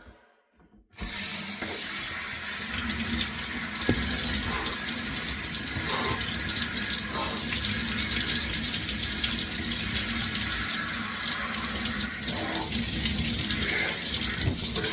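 Shower turned on about a second in, then water spraying steadily.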